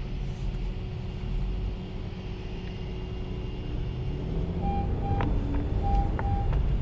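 Honda car idling with a steady low rumble, and from a bit past two-thirds in, a repeating warning beep from the car, with a few sharp clicks among the beeps.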